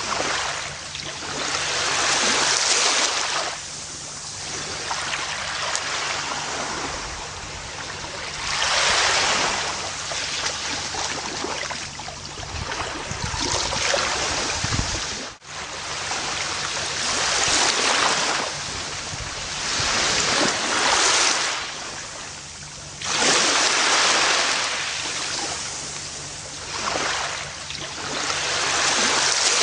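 Gentle ocean waves breaking and washing up a beach, a surge of surf every three to four seconds. There is a sudden brief drop-out about halfway through.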